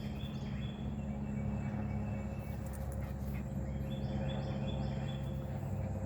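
A flock of birds chirping in short repeated runs of high notes, over a steady low hum.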